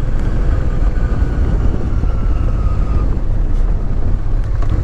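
Honda Transalp 650's V-twin engine running steadily as the motorcycle is ridden, under a heavy low rumble.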